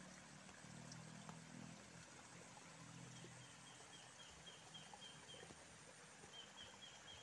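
Faint outdoor ambience, close to near silence, with a faint rapid series of short high chirps from a small bird or insect, about five a second. The chirps come in two runs, the second starting near the end.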